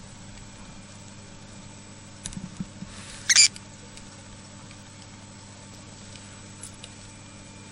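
Cockatiel giving one short, loud hiss a little over three seconds in, preceded by a few soft taps, against a steady low hum.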